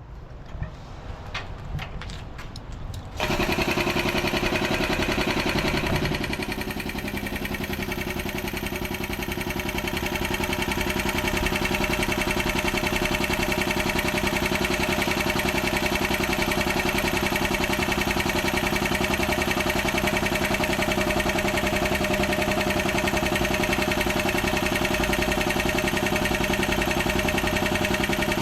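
Quiet handling noise, then about three seconds in an engine starts running steadily and keeps a constant pitch.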